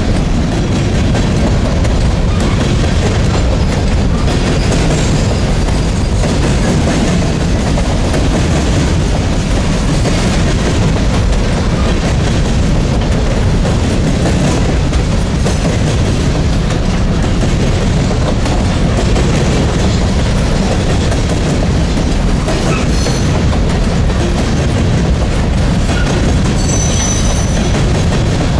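Covered hopper cars of a freight train rolling past close by: a steady loud rumble of steel wheels on the rails, with a brief high squeal near the end.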